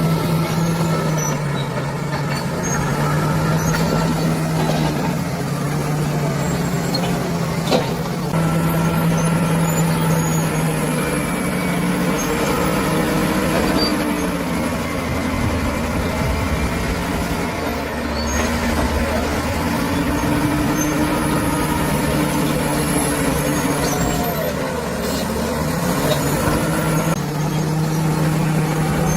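Bulldozer's diesel engine running under shifting load, its pitch rising and falling over several seconds as it works, with a single sharp knock about eight seconds in.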